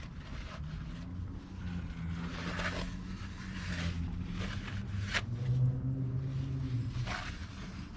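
An engine or motor running steadily, its pitch drifting a little, with short scrapes and knocks of parts being handled.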